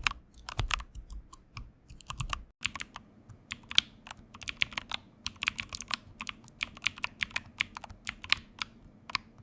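Keys being typed on a computer keyboard: fast, irregular key clicks. About two and a half seconds in there is a brief break, after which the clicks go on over a steady low hum.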